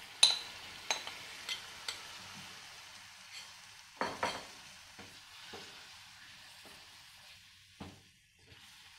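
Marinated chicken pieces sizzling in hot oil and butter in a non-stick frying pan, the sizzle fading slowly as the pan cools under the meat. Sharp knocks, the loudest just after the start and another about four seconds in, as the pieces drop in and a wooden spatula moves them against the pan.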